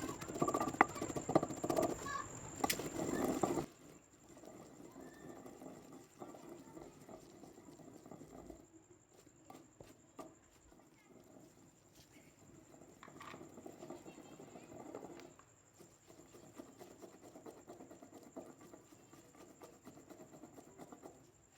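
Pestle pounding and grinding a red chilli and salt paste in a mortar: rapid, dense knocking for the first few seconds, then softer, irregular tapping and scraping.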